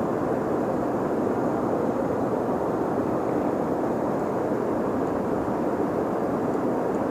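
Steady, even rushing of river water flowing through the current.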